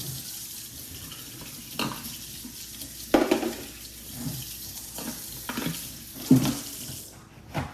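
Kitchen tap running into a sink while dishes are rinsed, with several knocks and clanks of pots and dishes against the sink; the water shuts off about seven seconds in.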